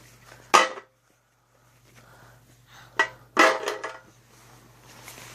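Hard objects clattering as they are handled: one sharp knock about half a second in, then another knock and a short run of clattering hits around three to four seconds in.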